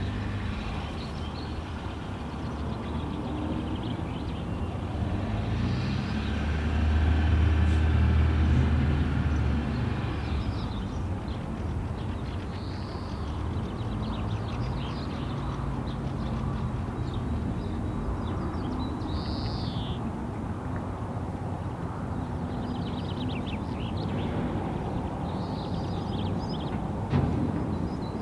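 Birds giving short high chirps now and then over a steady low rumble, which swells louder for a few seconds about six seconds in.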